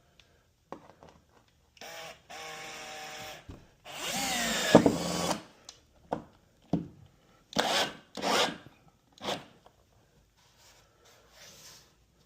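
Drywall repair work with tools: two runs of a small power tool, the second louder with its pitch dipping under load, then about five short rasping strokes across the surface.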